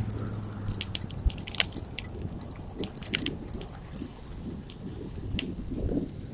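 Bicycle being ridden over pavement: irregular clicks, ticks and light rattles from the bike, with a low rumble of the ride. A steady low hum fades out about a second in.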